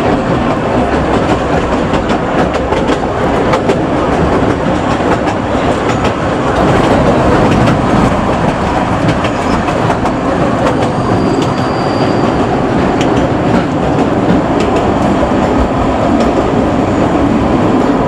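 Kurobe Gorge Railway narrow-gauge trolley train running, heard from aboard: a steady rumble of wheels on rail with the clickety-clack of rail joints, growing a little louder about six or seven seconds in.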